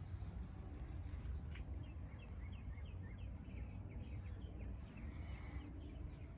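A bird calling a quick run of short chirps over a steady low rumble of outdoor background noise.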